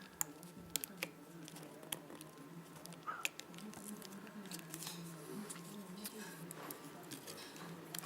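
Irregular small sharp clicks and taps of handling the plastic case of a Cowon C2 MP3 player during disassembly, several close together in the first few seconds and another about three seconds in.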